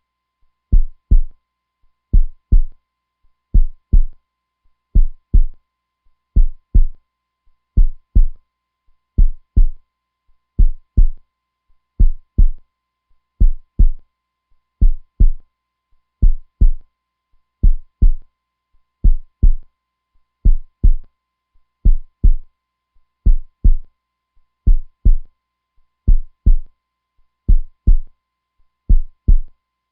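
Heartbeat, a steady double 'lub-dub' thump repeating evenly about every one and a half seconds, deep and low.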